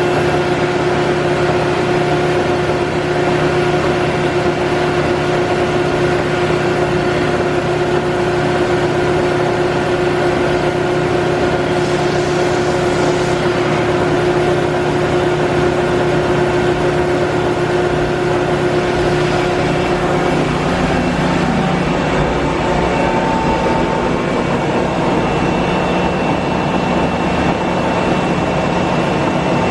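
Cincinnati Twin Grip centerless grinder running under power, a steady machine hum with a few held tones. About two-thirds of the way through, one tone drops away and a higher one comes in.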